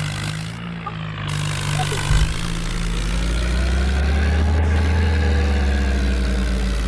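Mahindra tractor's diesel engine running, its revs picking up about two and a half seconds in, then swelling and easing off again.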